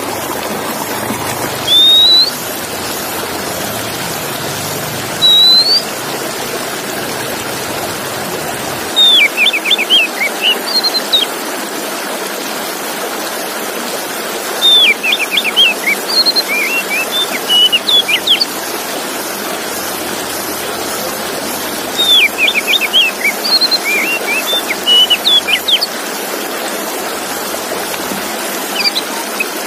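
Male Oriental magpie-robin (kacer) singing: a few single rising whistles a few seconds apart, then repeated bursts of quick, varied whistled notes every several seconds, over a steady hiss.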